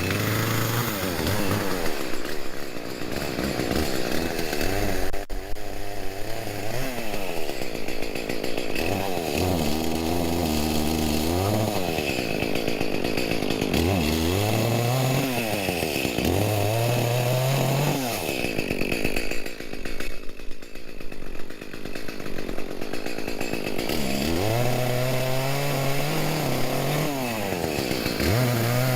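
Chainsaw revving up and bogging down again and again as it cuts through fallen timber, in several cuts of a few seconds each. It drops back to a lower idle about two-thirds of the way through.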